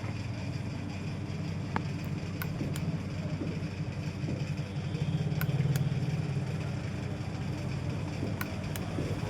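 A steady low drone of background noise, briefly a little louder about five seconds in, with a few light clicks scattered through it.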